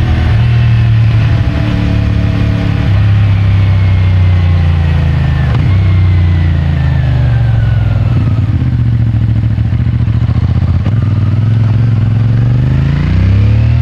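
CFMOTO 450MT parallel-twin engine and stock exhaust running under way, the pitch easing down through the middle and then climbing steeply as it revs up near the end.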